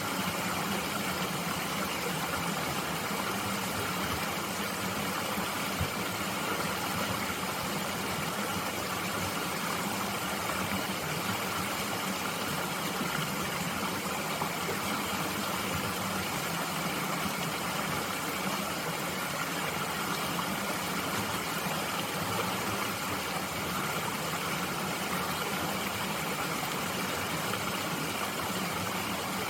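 Mountain stream flowing steadily, an even rushing of water with no separate events.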